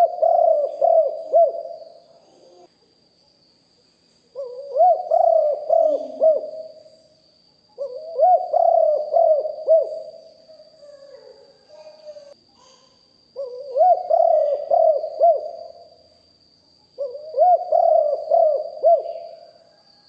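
Spotted dove cooing: five phrases of several coos each, each phrase about two seconds long, repeating every three to five seconds.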